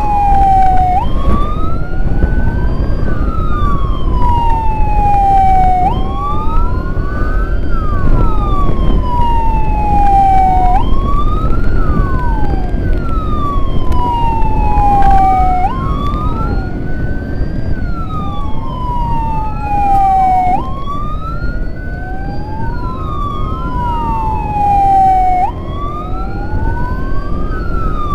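Two electronic sirens wailing at once, their pitches sweeping up and down and overlapping, each cycle lasting about five seconds. Under them is a steady low rumble of road and wind noise.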